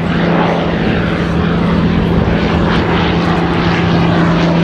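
V12 piston engine and propeller of a Second World War fighter in flight, a loud, steady drone with a strong constant hum.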